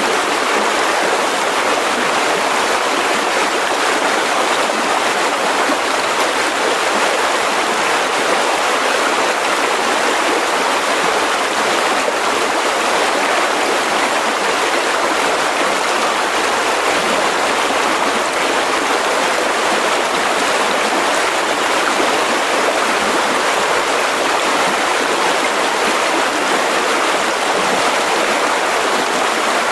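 Mountain river rushing over rocks: a steady, unbroken wash of flowing water.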